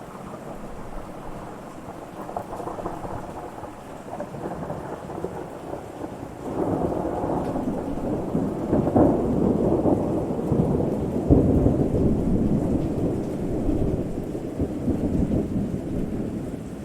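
Thunder rumbling over steady rain: a long, low rumble swells about six seconds in, is loudest in the middle and slowly fades near the end.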